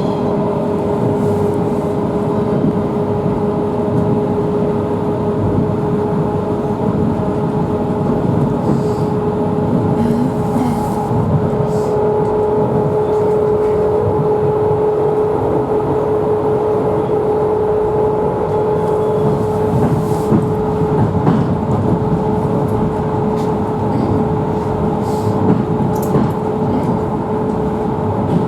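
Electric commuter train running at a steady speed, heard from inside the carriage: a constant rumble of wheels on rails under a steady whine.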